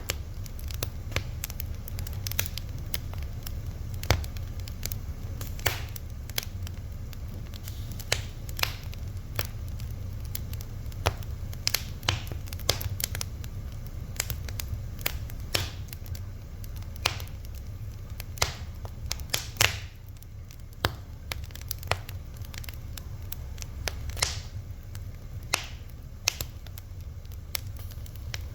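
Wood fire crackling, with sharp pops and snaps at irregular intervals over a steady low rumble of burning.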